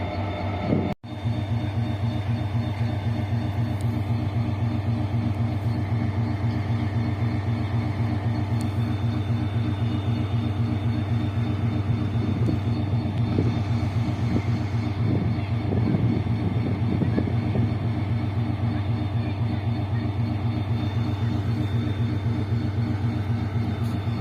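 Diesel locomotive engine running steadily, a low even drone with a strong hum. The sound drops out for an instant about a second in.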